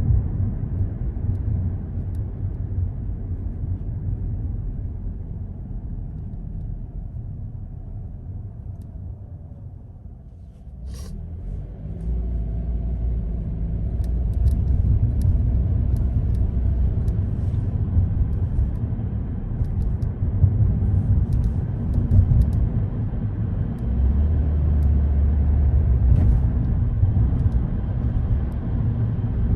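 Car driving through city streets: a steady deep rumble of engine and tyres that dies down about ten seconds in as the car slows, then builds again from about twelve seconds as it picks up speed.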